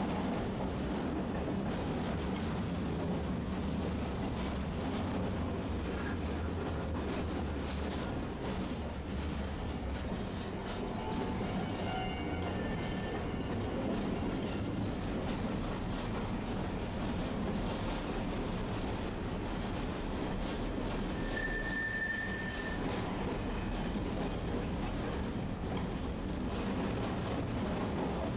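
A Tosaden streetcar running along its track, heard from inside the car: a steady low rumble of motors and wheels on rail. A few short high-pitched tones, about halfway through and again a little later, rise above the rumble.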